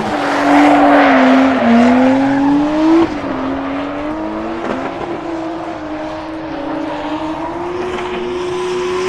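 Drift car held at high revs while spinning its tyres to warm them, with a rushing wheelspin hiss loudest in the first few seconds. The engine note sags and climbs, then drops sharply about three seconds in and holds a steadier, slowly rising pitch.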